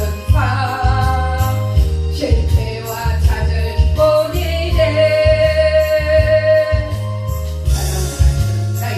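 A singer performing a gospel hymn over a band accompaniment with a steady bass line and light percussion, holding one long note in the middle.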